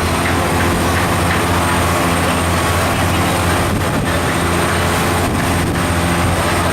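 Boat engine running steadily, a constant drone over the rush of water and wind.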